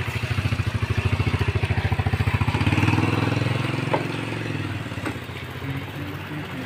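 A motorcycle engine idling with a quick, even pulse, which eases into a smoother, steadier sound about three seconds in; a light click near the middle.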